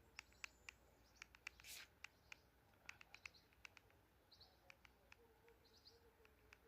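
Faint, short bird chirps, a dozen or more at irregular intervals, with a couple of quick trilled calls in between.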